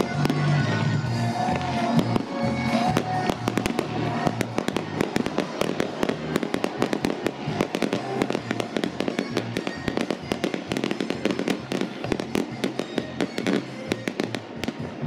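Aerial fireworks shells bursting, with dense, rapid crackling and popping of crackling stars, over background music.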